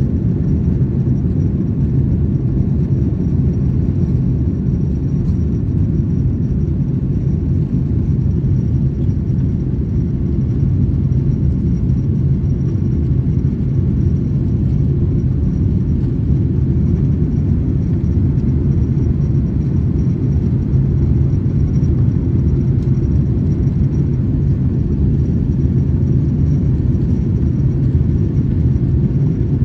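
Steady cabin rumble of a Boeing 737-900ER with CFM56-7B engines, heard from inside the cabin, with a faint steady high tone above it.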